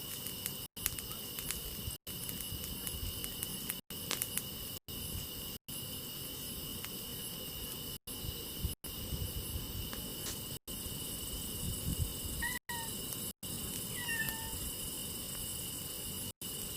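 A cat meowing twice, briefly, late on, over a steady chorus of crickets and faint scattered crackles.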